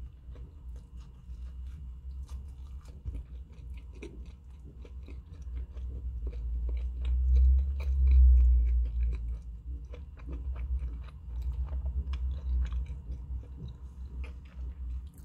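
A person chewing a mouthful of black-bun chicken burger close to the microphone, with many small sharp clicks from the food and mouth; the chewing is loudest a little past halfway.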